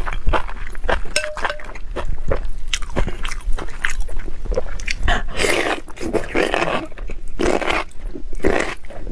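Close-miked chewing of spicy enoki mushrooms: quick wet clicks and smacks of the mouth, then from about five seconds in, longer noisy bursts about once a second.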